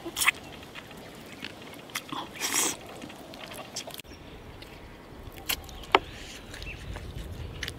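Eating braised duck neck and duck feet with the mouth close: biting and chewing on the meat and bone, with scattered crunches and sharp clicks, the clearest about two seconds in and around six seconds in.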